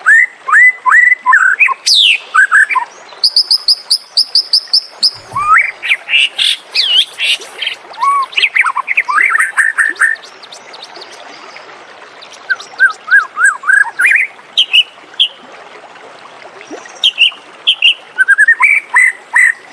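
White-rumped shama singing: a varied string of clear whistled notes and sweeping glides, with a fast trill of repeated high notes a few seconds in, broken by two short pauses.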